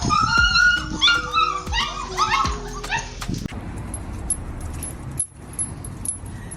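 A dog whining and yipping in a run of high-pitched, wavering cries over background music. After about three and a half seconds it stops, and only a quieter background with a few clicks remains.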